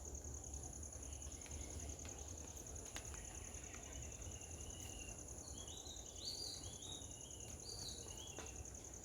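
Steady, fast-pulsing insect trill, cricket-like, running throughout, with a run of short, high chirps about six seconds in.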